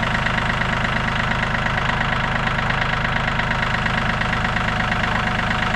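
An engine idling steadily nearby, a continuous even hum with a fast regular pulse.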